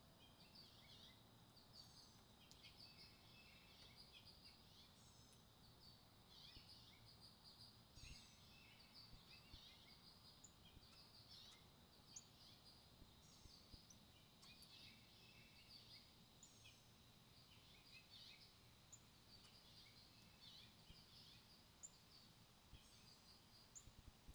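Faint outdoor birdsong: a steady scatter of short, high chirps and quick sliding call notes from wild songbirds, over a low background rumble.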